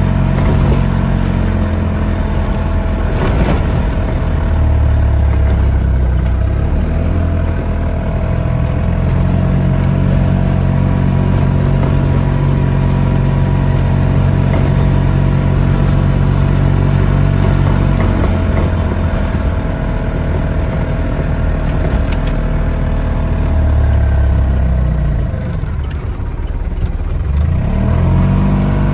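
Ligier Ambra microcar's Lombardini two-cylinder diesel engine running while driving, heard from inside the cabin. Its pitch rises and falls with the throttle, dipping briefly near the end and then climbing again.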